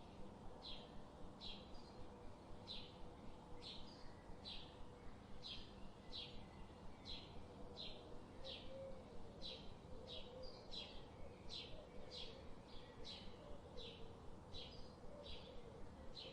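A bird calling: a short, high, falling chirp repeated steadily over and over, a little more than once a second, faint.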